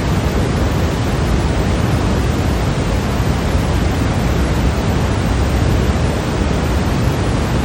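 Steady, unbroken white noise played for sleep, a constant even hiss that is heavier in the low end.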